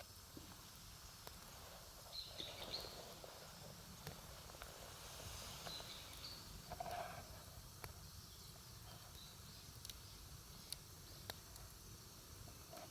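Wood campfire burning quietly, crackling with scattered sharp pops.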